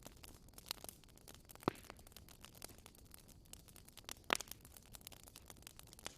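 Campfire burning: a continual run of small crackles and snaps, with two louder pops, one about a second and a half in and another just past four seconds.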